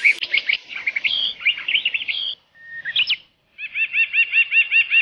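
Birds chirping: a busy run of high chirps that stops about two and a half seconds in, a couple of notes, then an even trill of repeated arched notes at about seven a second.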